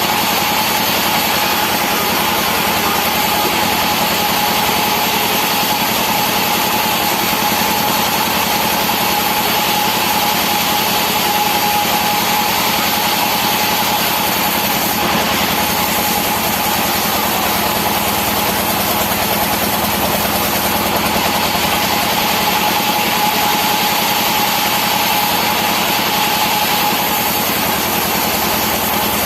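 Sawmill saw machinery running steadily, a constant loud mechanical noise with a steady whine over it.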